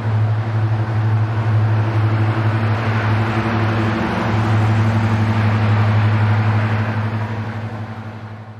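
A vehicle's engine droning steadily with a low hum over rushing noise, swelling and then fading away near the end.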